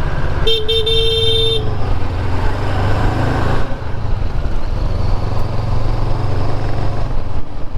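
Motorcycle engine running at road speed with wind and road noise, and a vehicle horn sounding once for about a second, about half a second in.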